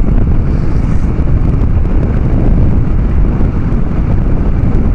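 Harley-Davidson Dyna Street Bob's V-twin running on a Vance & Hines Big Radius 2-into-2 exhaust while riding at a steady pace: a continuous low rumble mixed with wind noise on the microphone.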